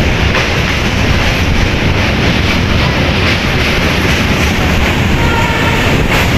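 Ballia–Sealdah Express passenger train running across a steel truss bridge: a loud, steady rumble and rattle of wheels on rails, heard from an open doorway.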